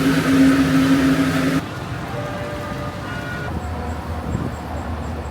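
City street traffic: a loud steady hiss with a low held tone for about the first second and a half, cutting off suddenly, then a lower steady rumble of traffic.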